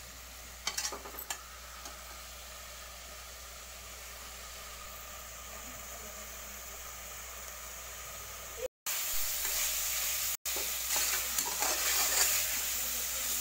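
Cauliflower and masala frying with a steady sizzle in an aluminium pressure cooker, while a slotted metal spoon stirs and scrapes the pot. There are a few scrapes about a second in. The sizzle gets louder after a brief dropout about two-thirds of the way through.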